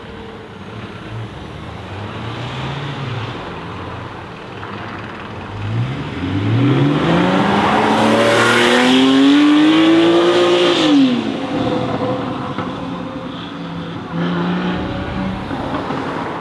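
Jaguar F-Type V8 R's supercharged 5.0-litre V8 accelerating hard: a low running note, then from about six seconds in the engine pitch rises steadily for about five seconds at full volume before falling away sharply, settling back to a lower rumble.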